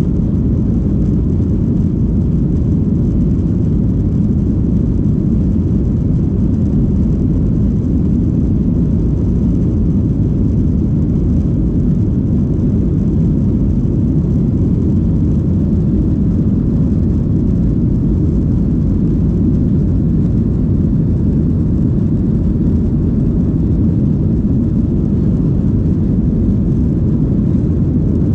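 Steady low roar inside the cabin of a Boeing 737-800: engine and airflow noise, unchanging throughout.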